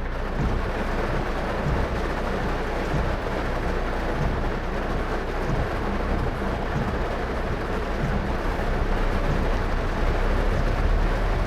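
Heavy rain falling on a moving car, mixed with steady low road and tyre rumble, growing a little louder near the end.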